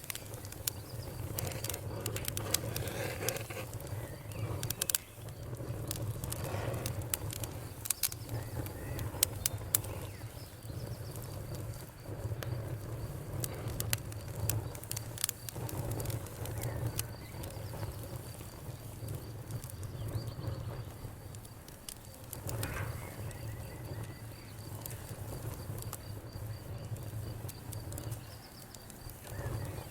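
Wood fire crackling in a fireplace, with sharp pops and snaps over a low, steady rumble. The pops come thickest in the first ten seconds and then grow sparser.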